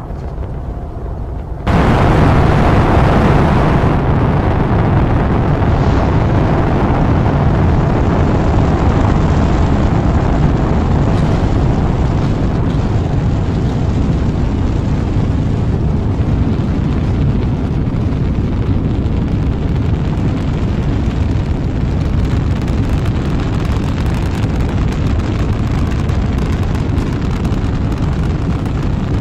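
Rocket engines firing at launch: a low rumble steps up suddenly, about two seconds in, to a loud, steady roar reaching from deep bass up to a high hiss.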